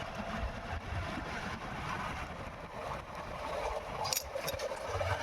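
Motorcycle running at a steady pace on a wet road, a continuous drone of engine and road noise with a few brief sharp ticks about four seconds in.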